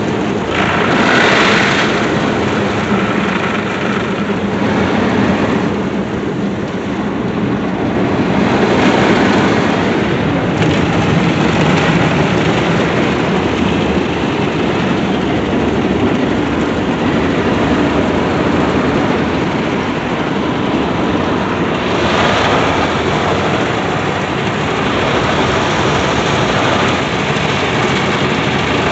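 Istobal Flex 5 in-bay automatic car wash gantry moving over the car and spraying water against the body, a loud, steady rushing noise heard from inside the car.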